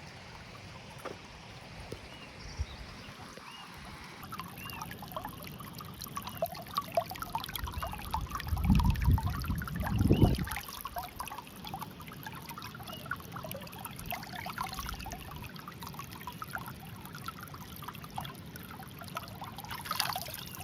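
Mountain stream trickling and burbling over rocks. About two seconds of louder low rumble come through near the middle.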